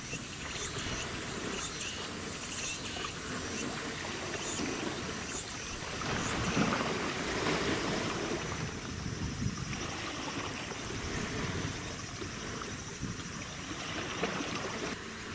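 Water washing and splashing with wind noise, swelling for a few seconds about six seconds in.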